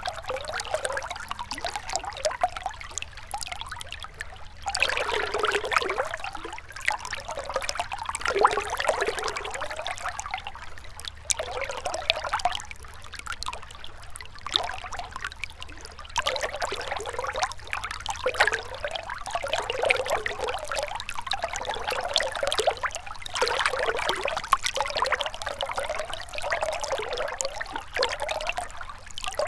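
Shallow river water flowing and trickling, a continuous burbling rush that swells and ebbs every few seconds.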